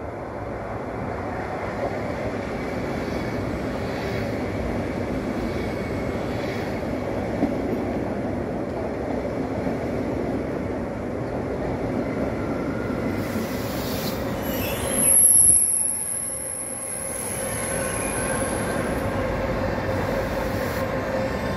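PKP Intercity Pendolino (ED250) electric train pulling into the platform: a steady rumble of wheels and running gear. About two-thirds of the way in comes a loud surge and a high-pitched squeal lasting a few seconds as the train slows, and the squeal starts again at the end.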